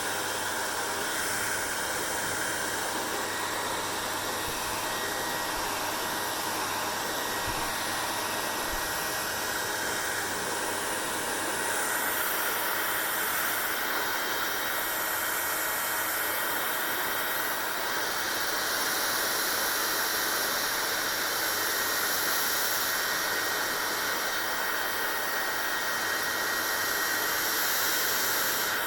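Hair dryer blowing steadily, a rushing of air with a faint whine and a low hum, growing a little louder about twelve seconds in and again later.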